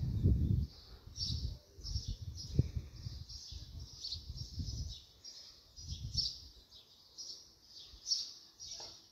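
Small birds chirping over and over, with wind rumbling on the microphone in gusts through the first five seconds and again about six seconds in.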